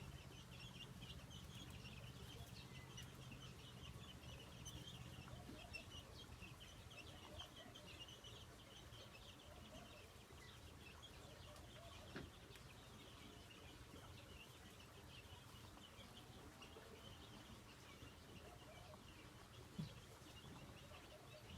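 Faint, continual high-pitched chirping from many small animals, with a low hum in the first few seconds and two brief soft thumps in the second half.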